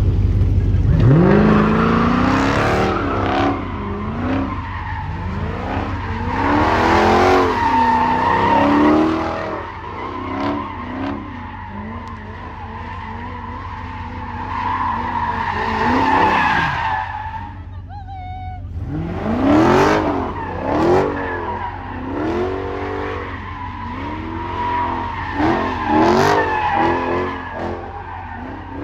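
A car sliding with its tires squealing, its engine revving up and down over and over.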